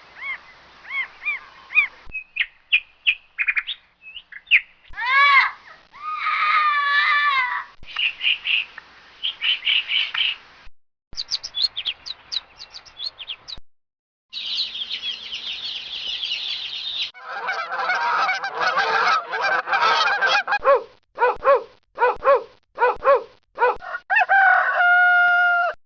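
A string of separate bird-call recordings cut one after another: high chirping and whistling of small birds, then louder, lower repeated calls of farmyard fowl such as geese honking and a rooster crowing.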